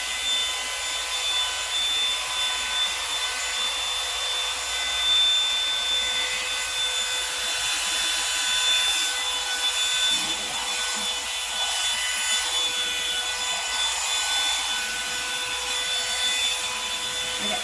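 Revlon One-Step Volumizer hot-air brush running on its cool setting: a steady rush of air under a constant motor whine, with the brush rubbing through the hair.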